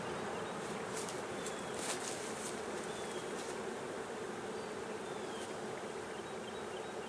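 A swarm of honeybees buzzing steadily around an open hive box, with a few faint clicks from frames being set in.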